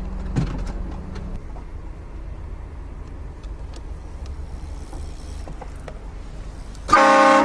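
Low rumble of the car running, then near the end a sudden loud blast from a novelty prank car horn, a buzzy sound with many stacked tones.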